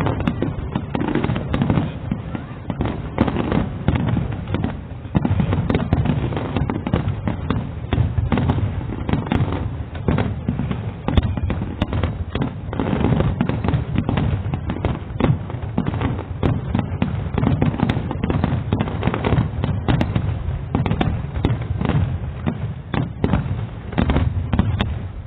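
Fireworks display: a dense, continuous barrage of overlapping bangs and booms, many shells bursting in quick succession.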